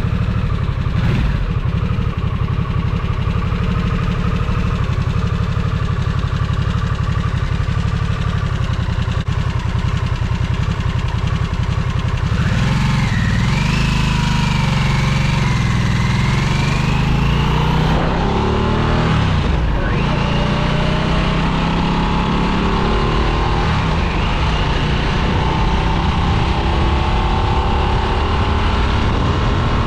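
2022 Harley-Davidson Nightster's Revolution Max 975T V-twin on the move: running steadily for about twelve seconds, then revving up under acceleration. Its pitch drops sharply at about twenty seconds and climbs again through the rest.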